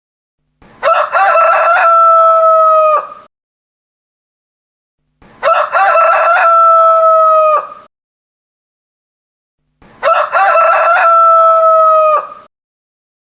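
Rooster crowing three times at even intervals, each crow about two and a half seconds long with a long held final note, and silence between crows.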